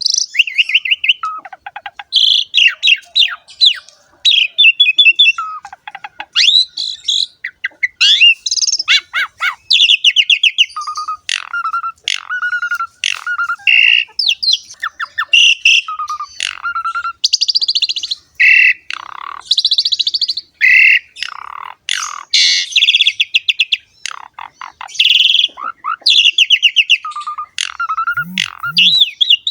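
Jalak suren (Javan pied starling) singing without a break: a varied stream of clear whistles, fast chattering trills and harsher squawky notes.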